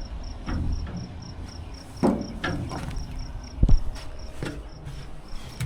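A cricket chirping steadily, about four high chirps a second. Several knocks and thumps sound over it, the loudest a heavy thud a little past halfway.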